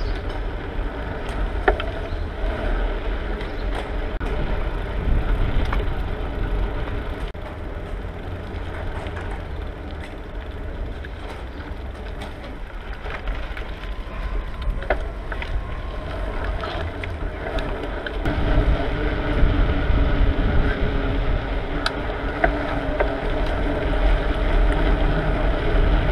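Bicycle being ridden, with mechanical rattling and clicking from the bike over a steady rumble of wind on the microphone. About two-thirds of the way through, a steady hum comes in and the sound gets louder.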